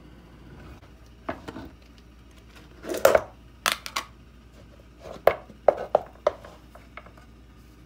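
Kitchenware being handled during food preparation: irregular sharp clicks and knocks, with a longer scraping rustle about three seconds in and a quick cluster of clicks around five to six seconds in.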